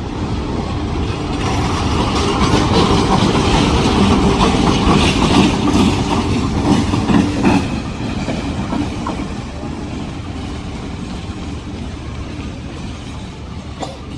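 A train rolling along the track, its wheels clattering over rail joints with a rumble. It grows loudest around the middle, then slowly fades as it moves on.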